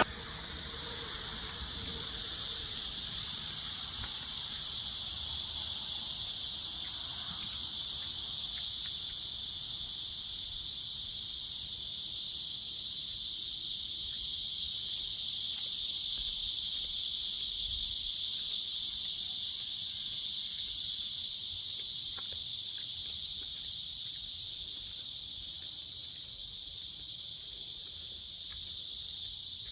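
A chorus of insects, a steady high-pitched buzzing drone that swells a little over the first few seconds and then holds.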